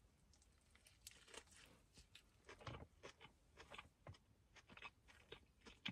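Faint, irregular crunching as a person chews a mouthful of a tortilla wrap that has potato chips packed inside it.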